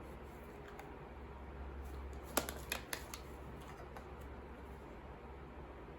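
Small objects being handled: a quick run of four or five sharp clicks and taps a little over two seconds in, over a low steady hum.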